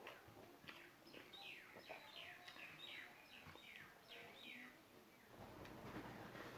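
Faint bird calls: a quick series of about eight short downward-sliding chirps over a few seconds, over quiet room tone. A soft rustling noise starts near the end.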